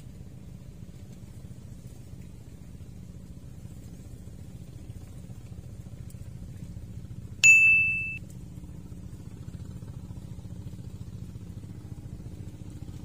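A steady low motor drone runs throughout. About seven and a half seconds in, a single bright bell-like ding rings out and dies away within a second.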